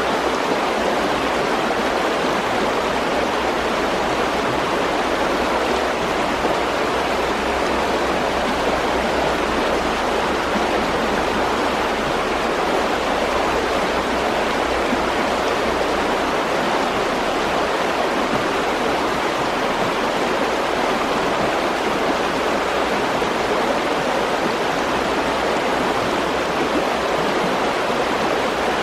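Mountain stream rushing steadily over rocks, an even water noise with no breaks.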